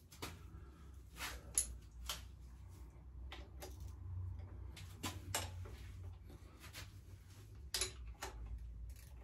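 Irregular light clicks and knocks of hand tools being handled and put down in a workshop, about a dozen over the span, over a steady low hum.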